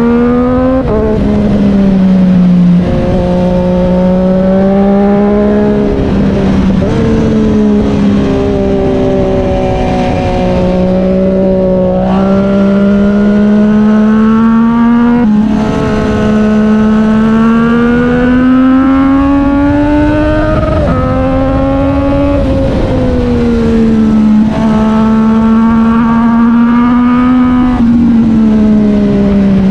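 Triumph Street Triple 765 R's inline-three engine running loud through an SC Project S1 exhaust at steady mid-range revs. The pitch creeps up and then steps abruptly up or down several times as the throttle and gears change.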